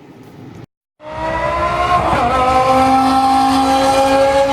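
A car engine running hard under acceleration, its pitch climbing slowly and steadily, with a brief wobble about two seconds in. It starts abruptly about a second in, after a short dropout.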